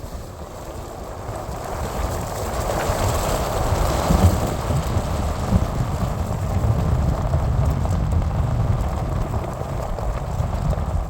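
A vehicle driving off: engine and road noise with a low rumble, building up over the first few seconds and then running steadily.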